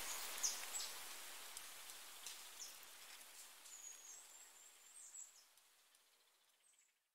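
Faint, high chirping of small birds over a soft outdoor hiss, fading out about five seconds in.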